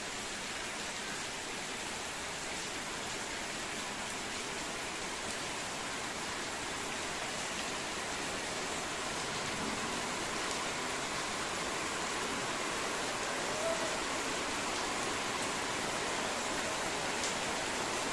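Steady rain falling into an open central courtyard (nadumuttam): a dense, even hiss with a few faint sharper drips.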